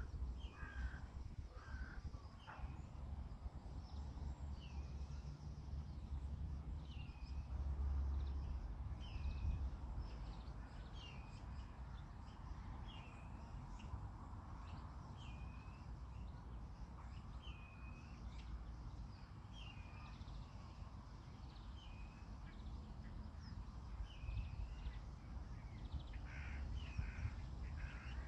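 A bird calling over and over, a short hooked call about every two seconds, with a few lower calls near the start and near the end. A steady low rumble runs underneath.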